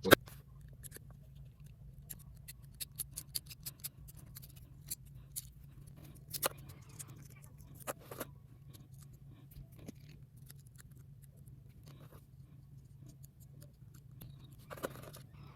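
Small metal tools clicking and tapping on a wristwatch as its case is opened for a battery change: irregular sharp clicks, a quick run of them early on and a few louder single clicks later, over a steady low hum.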